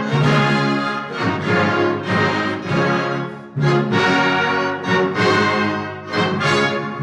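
Community concert band of woodwinds and brass playing full, sustained chords that swell and fall in short phrases.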